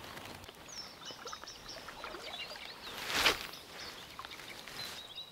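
Small birds chirping faintly over quiet outdoor ambience, with a short rush of noise about three seconds in.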